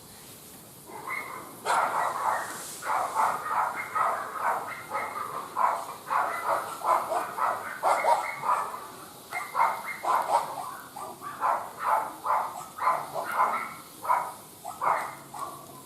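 A dog barking in quick repeated barks, several a second, starting about a second in and keeping on for some fourteen seconds.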